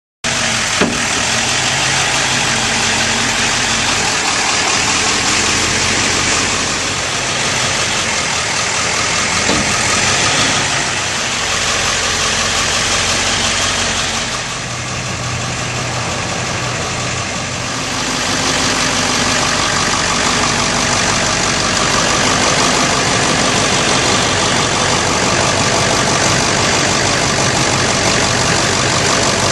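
Engine of an Altec AT235P bucket truck idling steadily. It comes in abruptly at the start and holds an even, unchanging note throughout.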